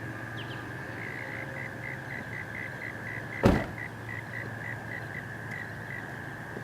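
A car door shutting once with a heavy thump about halfway through. Under it runs a steady low hum and a high steady tone, with quick regular chirps about four a second.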